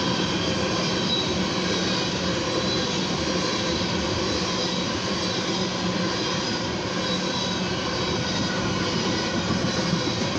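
Freight train of ethanol tank cars rolling past, a steady rumble of steel wheels on rail with a faint high ringing tone on top.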